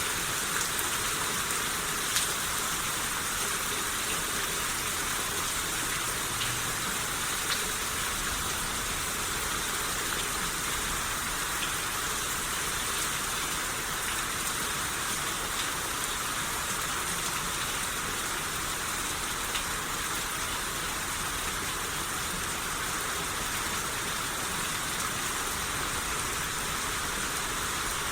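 Steady rain shower falling on a surface, an even dense hiss with occasional individual drop taps.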